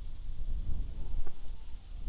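Strong gusty wind buffeting the microphone: a low rumble that swells and drops with the gusts, over a steady hiss.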